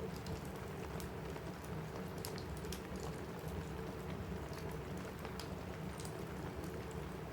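Steady rain on a cabin roof with a wood fire crackling: an even hiss with scattered sharp pops and clicks throughout.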